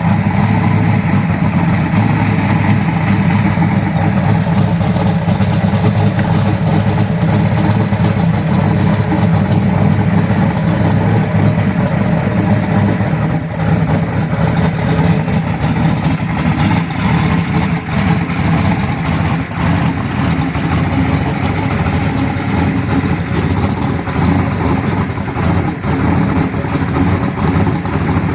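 Car engine running loudly and steadily.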